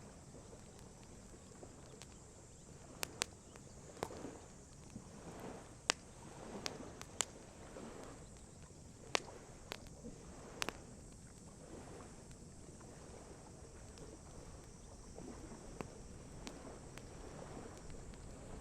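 Wood campfire crackling, with sharp irregular pops that come thickest in the first half, over the soft lapping of lake water.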